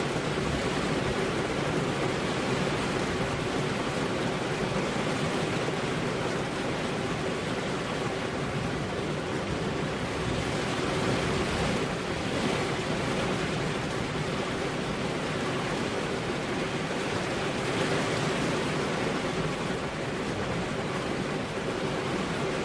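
Steady rain falling, an even wash of noise with slight swells in loudness and no thunder.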